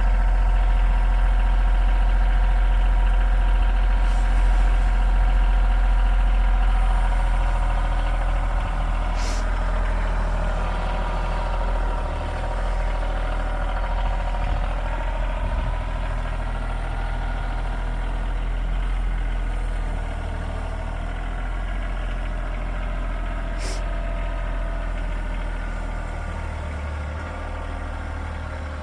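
Tractor engine running steadily, its pitch drifting a little and its sound slowly getting quieter, with heavy wind rumble on the microphone.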